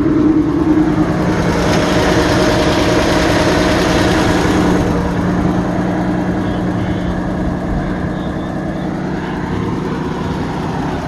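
Truck engine running at idle, loud and steady, with a louder, rougher stretch of a few seconds near the start.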